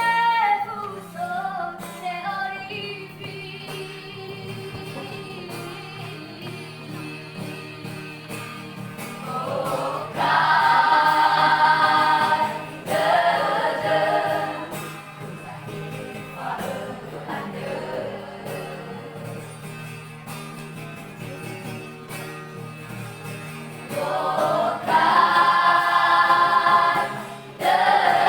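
Vocal group singing a gospel song: softer group passages, with two louder stretches, about ten seconds in and again near the end, where a high voice rings out above the group.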